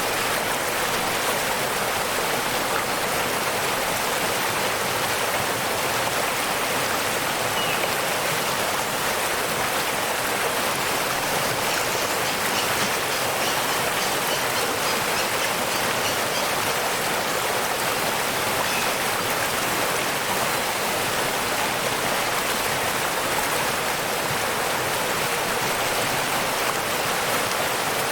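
Waterfall: a steady, unbroken rush of falling water, with most of its sound in the higher hiss rather than a low rumble.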